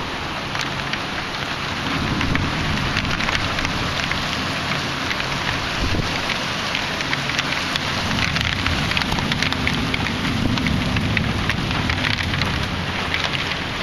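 Heavy thunderstorm rain falling hard, with many sharp drop ticks, over a low rumble of storm wind that swells twice.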